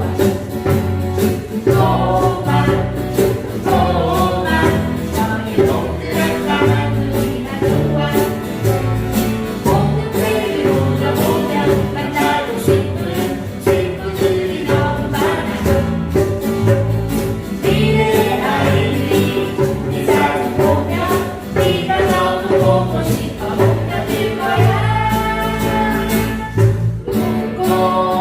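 Several voices singing a song together over instrumental accompaniment, with a steady percussive beat and a walking bass line.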